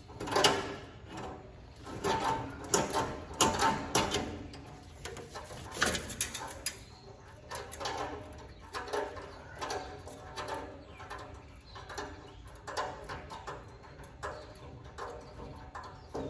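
Irregular metal clinks and knocks of hand tools on a combine header's bearing parts, with some low cooing at times.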